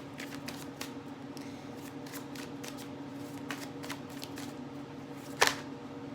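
Tarot cards being shuffled and handled in a run of light riffling clicks, with one sharp, much louder card snap about five seconds in, over a steady low hum.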